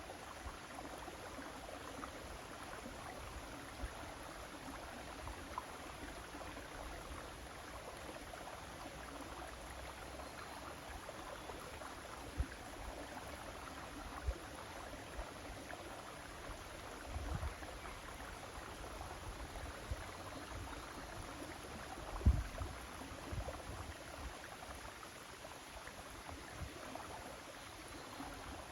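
River water running steadily with an even rushing babble, broken by a few low thumps, the strongest about two-thirds of the way through.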